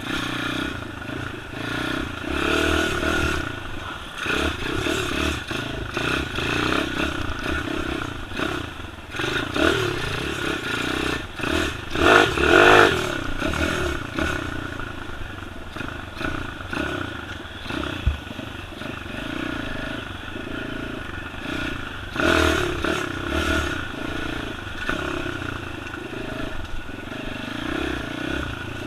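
Small four-stroke single-cylinder pit bike engine being ridden, revving up and down through the gears, with a sharp loud rev about twelve seconds in and another near twenty-two seconds.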